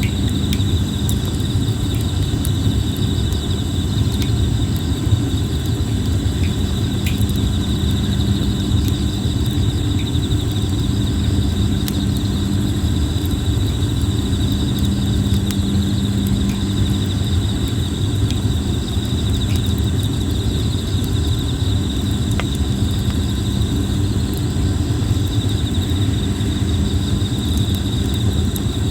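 Red plum wood burning in a campfire: a steady low rumble from the fire with a few scattered crackles and pops, over the steady high-pitched trilling of insects.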